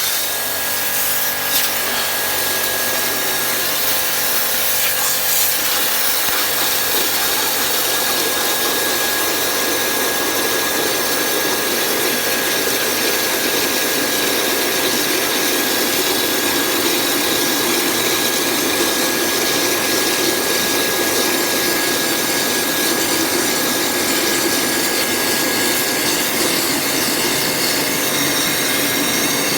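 HL QL-1200 electric high-pressure washer running steadily at full output, its water jet spraying into a bucket with a constant loud hiss and hum; a faint steady whine fades out near the end.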